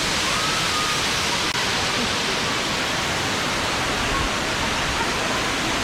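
Waterfall plunging into a pool: a steady, dense rushing of falling water.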